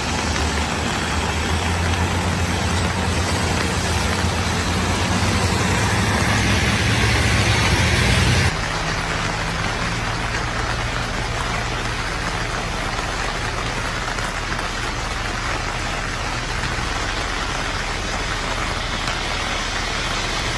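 Steady rain hiss over the low hum of a running vehicle engine. The sound drops and changes abruptly about eight and a half seconds in.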